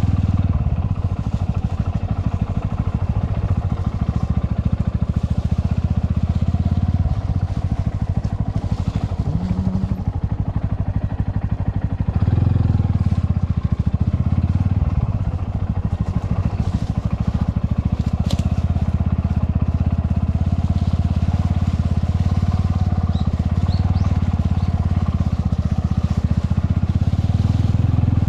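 Motorcycle engine running steadily at low speed, with small changes in throttle.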